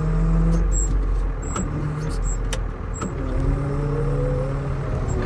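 Tractor engine running, its pitch stepping and gliding up and down as it is worked, with a few light clicks and knocks.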